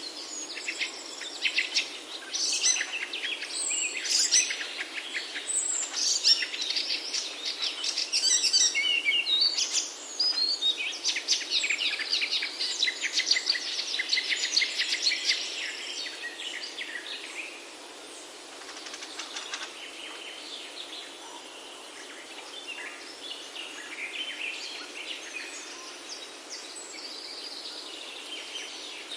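Several birds singing and chirping together over a steady background hiss, with dense, rapid calls through the first half that thin out after about 17 seconds.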